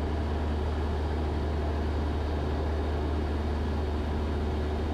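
Steady drone of a Cessna 172's engine and propeller in flight, heard from inside the cabin: a constant low hum under an even rush of noise.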